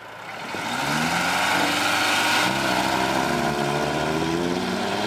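Heavy machine's diesel engine revving up about a second in, then running hard under load with its pitch wavering and slowly rising.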